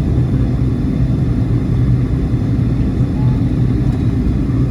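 Steady low rumble of cabin noise inside a jet airliner in flight, even and unchanging.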